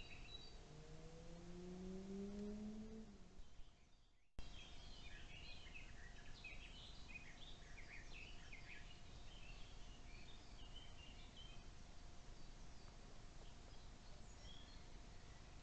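Small birds chirping faintly in woodland. A low, rising hum is heard in the first few seconds, and the sound cuts out and restarts abruptly about four seconds in.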